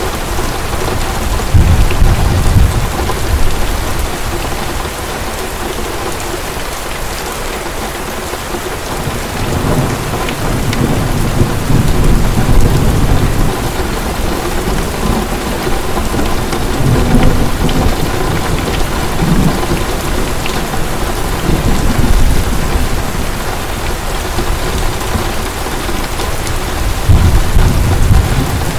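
Heavy rain falling steadily, with rolls of thunder rumbling low several times, the strongest around 2 s, 10–13 s and near the end.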